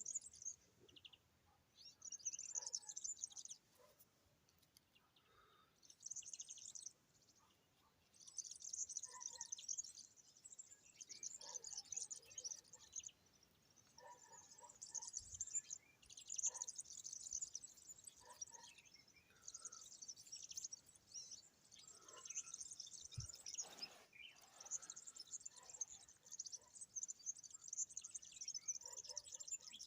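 Small birds chirping and twittering, faint and high-pitched, in bouts of a few seconds with short quiet gaps between them.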